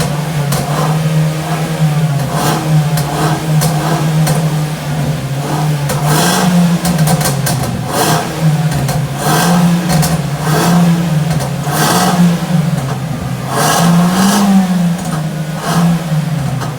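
Mazda 3 Skyactiv engine blipped repeatedly from idle, each short rev followed by sharp popping and crackling from the exhaust as it drops back: the overrun pops and bangs of an ECU remap.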